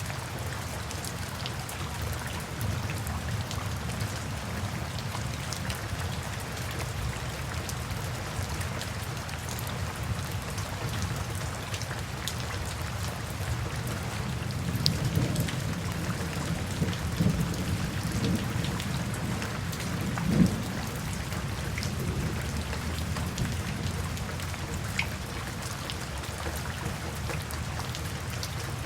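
Steady rain falling, with scattered drips ticking close by. Midway a low rumble of distant thunder swells for several seconds, loudest about twenty seconds in.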